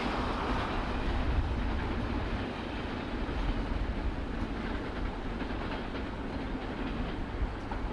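Freight train cars rolling along the rails as the train moves away: a steady rumble with a couple of sharp knocks, about a second and a half in and near the end.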